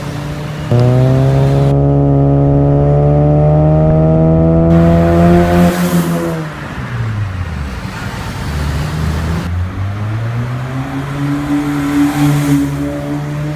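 2017 Honda City's four-cylinder engine breathing through an aftermarket full exhaust system and air intake. It comes in loudly under a second in, climbs steadily in pitch for about five seconds, drops back, then rises again and holds near the end.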